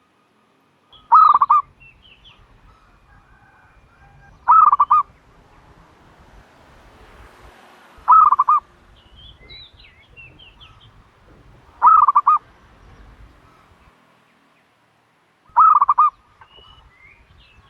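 Turtle dove calling: five loud, short bursts of quick repeated notes, one about every three and a half seconds, with faint chirps from other small birds in between.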